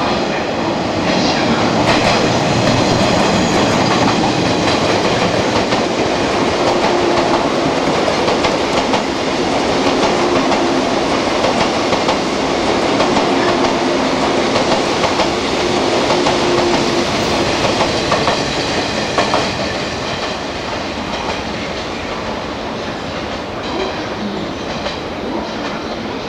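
A ten-car 183 series electric multiple-unit train passing through a station without stopping, its wheels clattering over rail joints as the cars rush by. The noise is loud and steady, easing slightly near the end.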